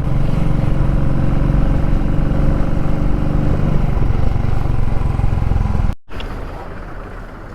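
Heavily loaded motorcycle's engine pulling steadily up a steep climb, with road and wind noise. About six seconds in the sound cuts off abruptly, and quieter engine and road noise follows.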